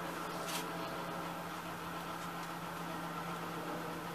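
Corn tortillas frying in oil on an electric griddle: a steady sizzle over a constant low hum, with one short click about half a second in.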